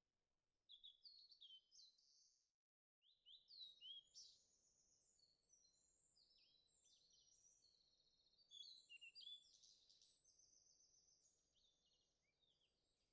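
Faint birds chirping: many quick, high call notes, with a brief gap about three seconds in and a busier burst of calls around nine seconds in.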